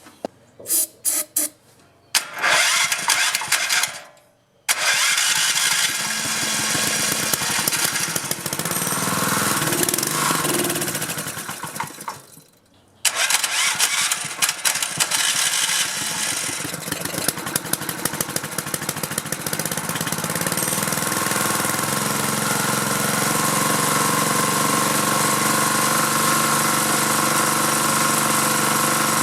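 Small four-stroke go-kart engine being started on choke. It cranks and coughs in short bursts, catches, and dies twice before catching again. It then runs unevenly before settling into a steadier run.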